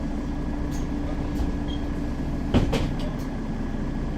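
Mercedes-Benz Citaro city bus running, heard from inside the passenger cabin as a steady engine and drivetrain hum. A few sharp knocks or rattles come about two and a half seconds in.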